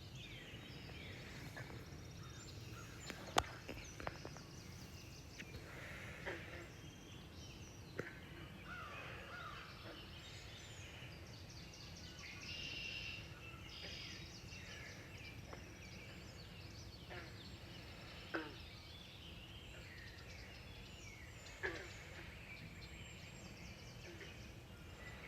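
Morning birdsong: several birds chirping and trilling at intervals, with a few louder calls, over a faint steady low background noise.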